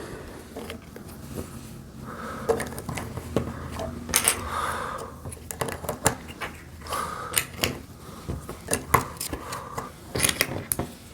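Plastic Lego bricks clicking and clattering as they are handled and pressed together, a run of irregular small sharp clicks.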